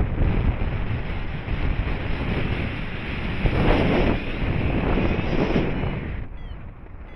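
Airflow from a paraglider's flight buffeting the microphone in gusts. It eases somewhat about six seconds in.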